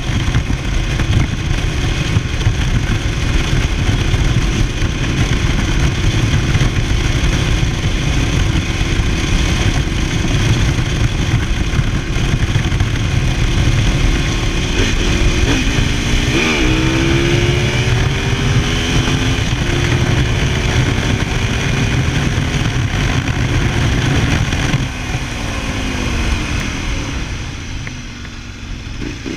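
Ducati Multistrada 1000DS's air-cooled L-twin running at road speed, heard from onboard with wind rush. About halfway through, the revs rise and fall a few times. Near the end the engine note drops and it gets quieter as the bike slows.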